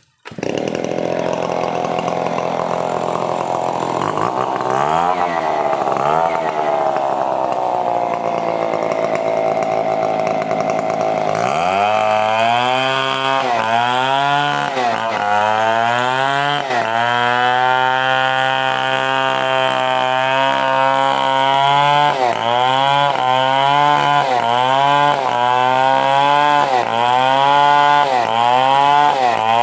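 Stihl 070 two-stroke chainsaw running hard while ripping a coconut-palm trunk lengthwise into boards. The sound comes in abruptly. From about a third of the way in, the engine note repeatedly sags and climbs back every second or two as the chain bites into the wood and recovers.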